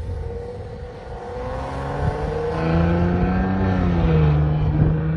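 Maserati Levante engine revving up: the pitch climbs over a couple of seconds from about a second in, then holds steady at higher revs.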